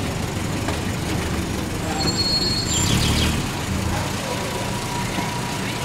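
Classic car engine running as the cars pull slowly away, a low rumble that swells about three seconds in. A short high-pitched squeak sounds about two seconds in.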